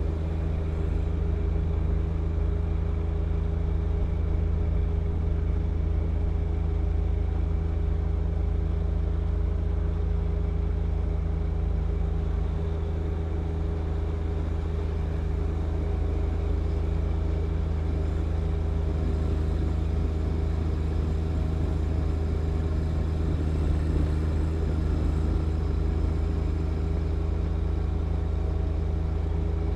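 John Deere 1025R compact tractor's three-cylinder diesel engine running steadily at constant speed, with no change in pitch or load.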